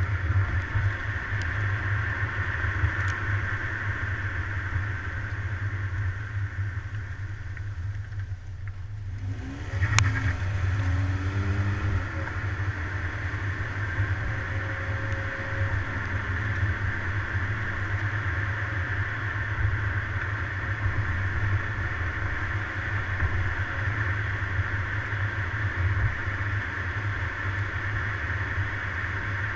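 Car driving along, a steady engine and road rumble with a band of rushing noise. About nine seconds in it dips for a moment. A sharp click follows, and the engine note climbs briefly before the steady running resumes.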